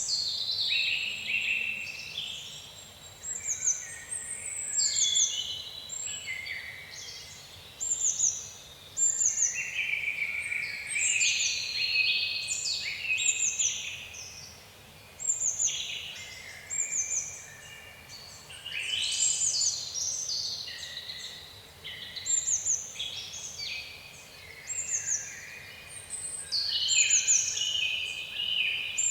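A chorus of several songbirds calling together: many short, high chirps that drop in pitch, repeated about once a second, over busier, lower warbling calls that come and go in swells.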